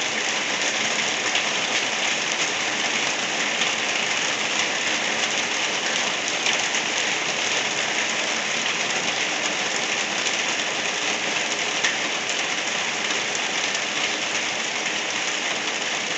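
Steady light rain falling: an even hiss dense with small drop taps on a surface.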